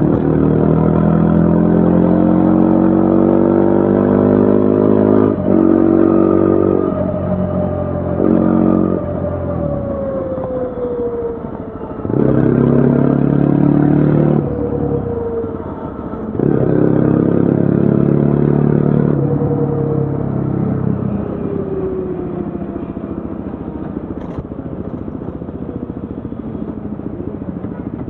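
2025 Yezdi Adventure's single-cylinder 334 cc engine and exhaust under riding, pulling up through the gears with a rising note and short dips at each shift. Around the middle and again about two thirds in, it falls in pitch as the bike slows, then settles to a lower, steadier engine sound for the last few seconds.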